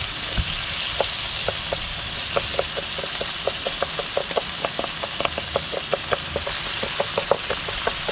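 Rice, onions and tomatoes sizzling in oil in a frying pan while the dry rice is toasted for a paella. A wooden spatula stirring the pan makes short clicks against it, about five a second, from about two seconds in.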